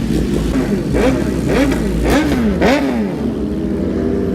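A vehicle engine revved in about four quick blips, each rising and falling in pitch, over a steady low rumble of idling engines.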